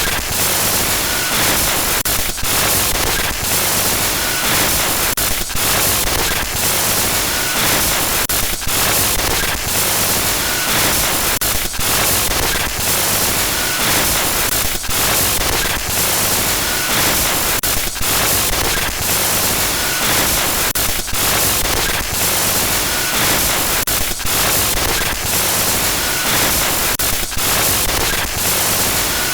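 Loud, continuous harsh static noise: a digital glitch-noise effect. It fills the whole range from deep to very high, and brief stuttering dropouts break it at irregular moments.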